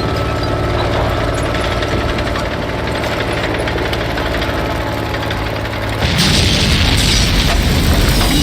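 Heavy engine rumbling steadily with a low drone, then about six seconds in a loud blast of rushing noise takes over.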